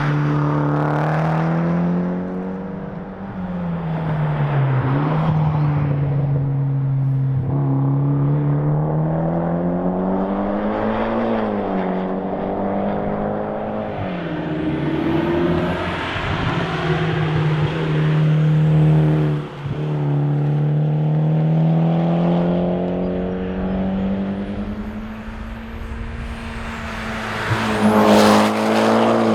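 Mitsubishi Lancer Evolution X's turbocharged four-cylinder engine driven hard at competition pace. The revs repeatedly climb and drop through gear changes and lifts, with a sharp lift about twenty seconds in and a loud surge near the end.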